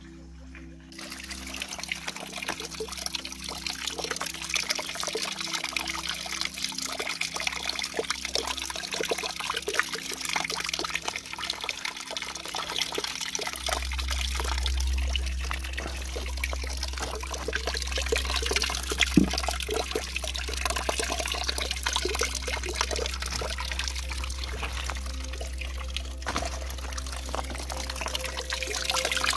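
Water pouring and trickling down an oak-trunk waterfall fountain, starting about a second in, with many small splashes. A low steady rumble joins about halfway.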